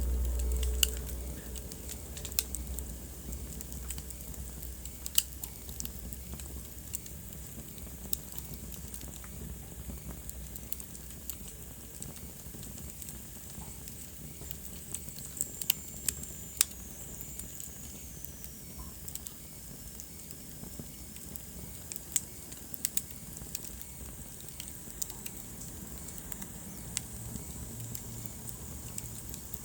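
Wood fire burning in a fireplace: a steady soft rush of flame with sharp, irregular crackles and pops. A low rumble sits under it for the first couple of seconds, and a faint high hiss slides down in pitch around the middle.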